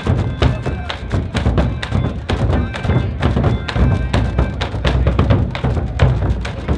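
Percussion music: many drums beating a dense, fast rhythm, with a strong deep drum beat underneath.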